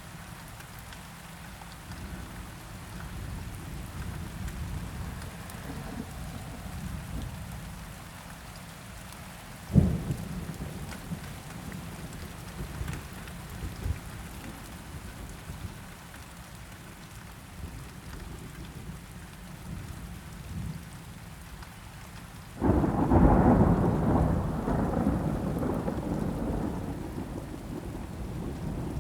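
Steady rain falling, with a single sharp crack of thunder about ten seconds in. Near the end a loud thunderclap breaks out and rolls on in a long, slowly fading rumble.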